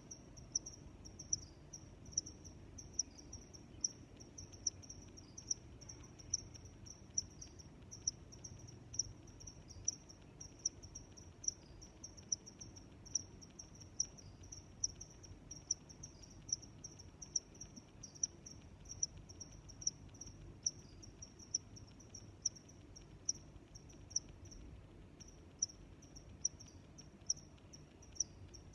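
Crickets chirping in a steady, even rhythm, a high-pitched chirp repeating a little more often than once a second over fainter, faster chirping.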